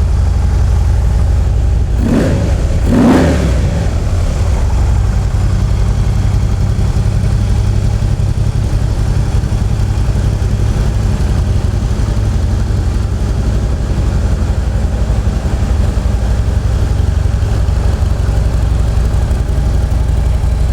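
A 2013 Harley-Davidson CVO Road King's Screamin' Eagle 110 cubic-inch V-twin idles steadily, freshly started on a cold morning. It is blipped twice about two and three seconds in, each rev rising and falling quickly. It runs smoothly and sounds healthy.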